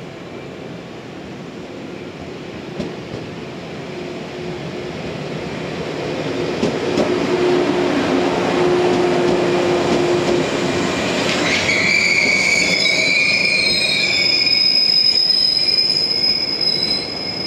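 Yellow electric multiple-unit commuter train approaching and running past close by, its rumble growing steadily louder. From about twelve seconds in, a high-pitched wheel and brake squeal with several steady tones joins it as the train slows into the station.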